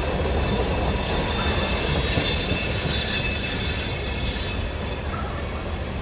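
Freight cars of a slow Wheeling and Lake Erie train rolling past with a steady low rumble of wheels on rail and high-pitched wheel squeal: one steady squeal that stops about a second in, then several higher squeals around the middle.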